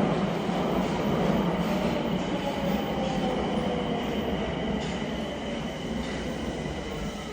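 Train running on the rails: a dense steady rumble with thin high whining tones over it, gradually getting quieter.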